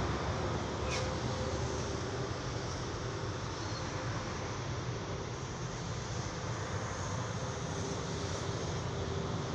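A steady low mechanical drone, with a single faint click about a second in.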